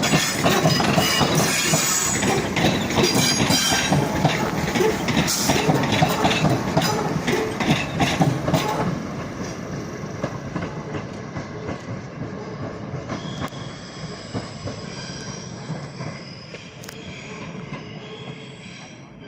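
Class 319 electric multiple unit running into the platform, its wheels clattering and clicking over the rail joints. About halfway through the noise drops away as the train slows, leaving a high squealing from the wheels that fades out.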